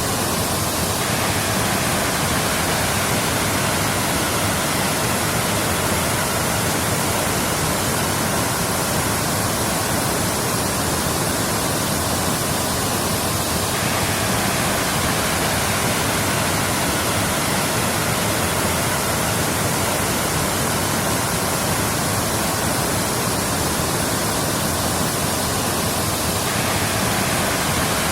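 Waterfall: water falling and splashing in a steady, unbroken rush spread across all pitches.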